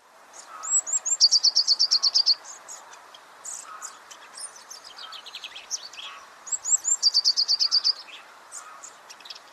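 Songbirds singing. One bird sings twice, about six seconds apart: a few high introductory notes, then a fast run of about a dozen repeated notes. Other birds chirp in between.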